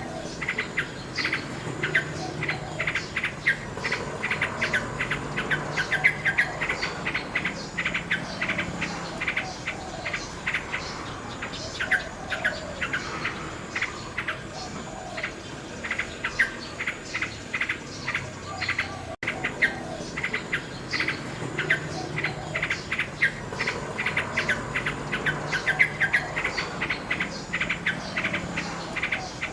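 Common nightingale singing a long run of quick, repeated notes and trills, with insects chirping steadily and high-pitched underneath. The sound cuts out for an instant about two-thirds of the way through.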